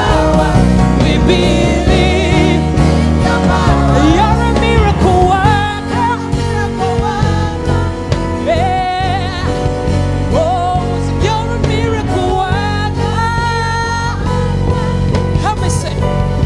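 Gospel worship music: wavering, drawn-out vocal runs without clear words over steady sustained instrumental accompaniment.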